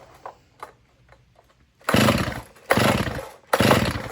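Three hard pulls on a Stihl chainsaw's recoil starter cord, about a second apart: each pull makes a short rasping whir as the engine cranks over without firing.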